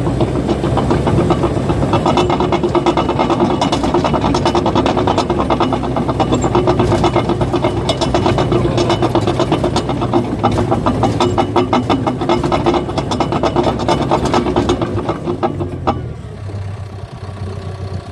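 Caterpillar bulldozer running with its steel tracks clanking rapidly over a steady whine and the low hum of the diesel engine. About two seconds before the end the track clatter and whine stop, leaving the engine running on its own.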